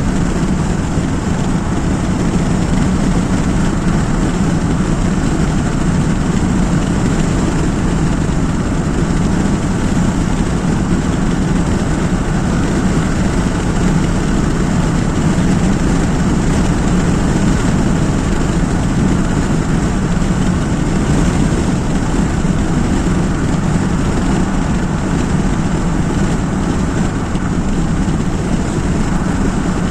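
A car driving along a highway: steady, unbroken road and engine noise.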